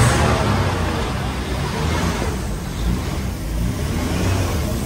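Motor vehicle on the road: steady engine rumble and road noise.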